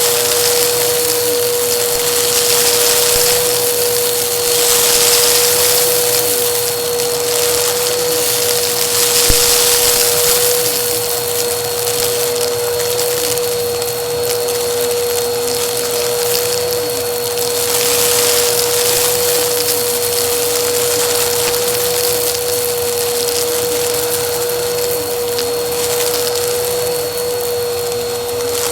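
Vacuum cleaner running steadily, its motor holding a constant whine under a rushing hiss of air that swells and eases every few seconds as it works over a rug.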